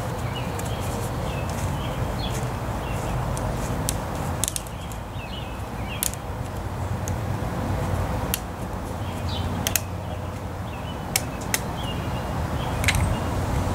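Small birds chirping in short calls about once a second, with scattered sharp clicks over a steady low hum.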